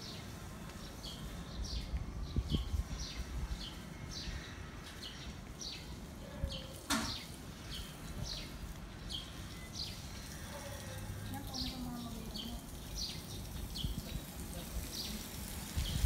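Small birds chirping over and over, short high chirps a few times a second, over a low steady rumble of outdoor background.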